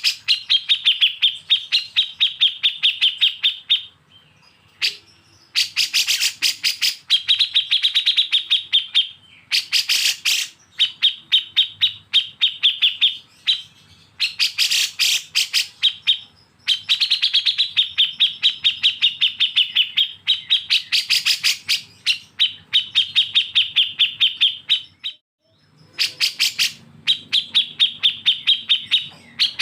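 Songbird singing in a series of rapid chattering bursts, each a fast train of sharp high notes lasting two to four seconds, with short pauses between them.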